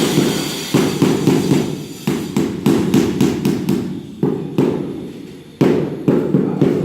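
A long series of knocks, about three a second, each one dying away quickly, with a short break about five seconds in.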